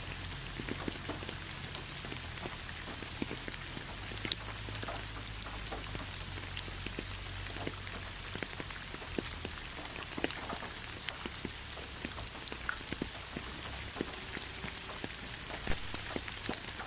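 Steady rainfall: a constant hiss of rain with many individual drops striking as sharp, irregular ticks.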